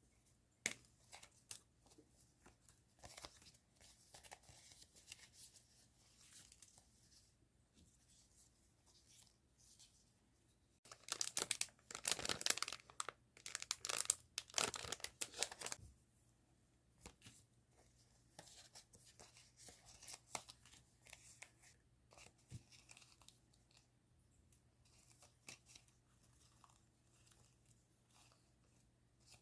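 Paper and plastic stationery packaging being handled and torn open, with light rustling and crinkling throughout and a louder stretch of tearing and crinkling about halfway through.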